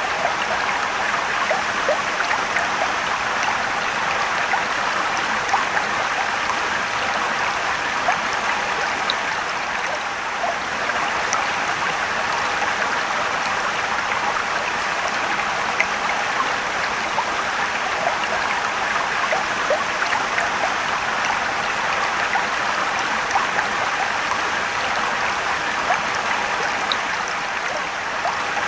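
Rushing, trickling mountain stream water flowing steadily over rocks, a continuous splashing noise with small scattered droplet ticks.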